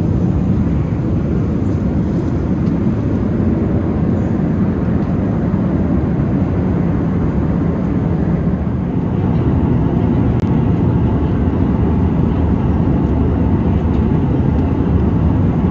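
Steady rushing cabin noise of an Airbus A380, heard from inside the passenger cabin. It is engine and airflow noise, strongest in the low range, with a slight change in tone about nine seconds in.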